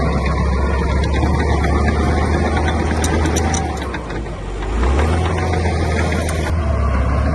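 Diesel engine of heavy construction machinery running steadily, dipping briefly about four seconds in, with a few light clacks just before.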